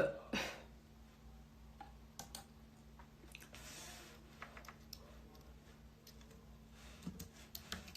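Faint, scattered light clicks and taps over a low steady hum, with a brief soft hiss about halfway through.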